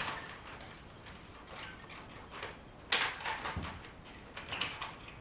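A scatter of light metallic clinks and knocks from steel tools being handled at a metal lathe, with no machine running. The loudest clink is about three seconds in.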